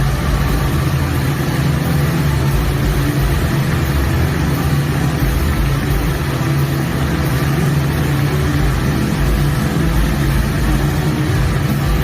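Motorcycle engine running steadily at low revs, with no clear revving up or down.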